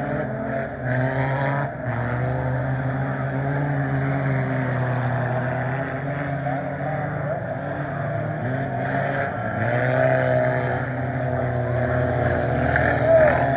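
Scramble race cars running laps together, their engines rising and falling in pitch over and over as they rev.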